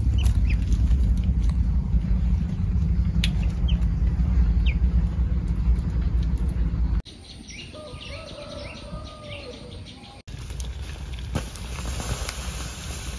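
Small birds chirping over a steady low rumble. After a sudden cut about seven seconds in, a quieter stretch of bird calls includes a lower drawn-out call. A second cut about three seconds later leads to a steady hiss with a few more chirps.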